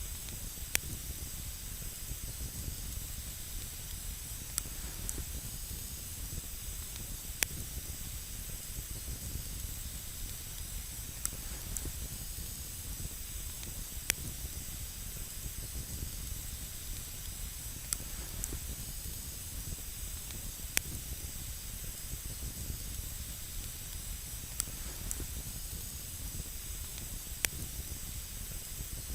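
Campfire burning on snow, with a steady hiss and a sharp crackle or pop from the burning wood every few seconds.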